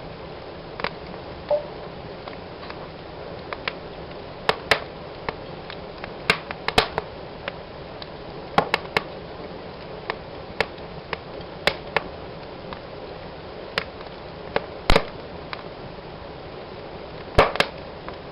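Wood fire in a fireplace crackling: a steady soft hiss with irregular sharp pops and snaps, several coming in quick pairs and the loudest near the end.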